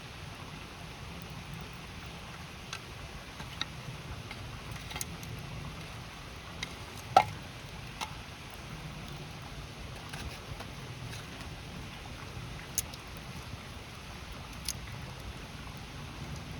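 Wood campfire crackling, with scattered sharp pops at irregular intervals, the loudest a little past the middle, over the steady rush of a flowing river.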